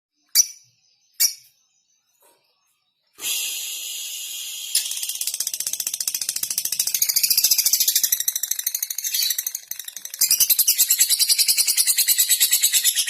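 Two sharp clicks, then from about three seconds in a lovebird's long, rapid, high-pitched chattering trill (ngekek), which grows louder near the end.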